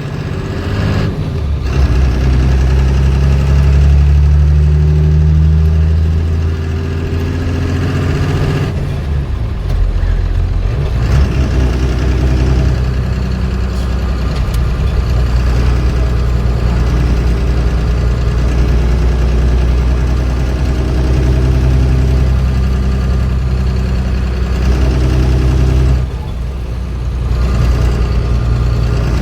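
Cummins 12-valve turbo diesel in a Chevy C30 dually running under way, a steady low diesel engine note whose pitch changes as the truck drives; the note drops and changes briefly about a third of the way in and again near the end, as on gear changes of the five-speed manual.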